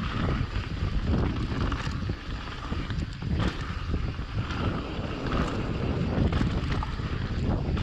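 Wind buffeting the microphone of a camera riding on a mountain bike, over a steady rumble of tyres on rough trail, with scattered short clicks and rattles from the bike.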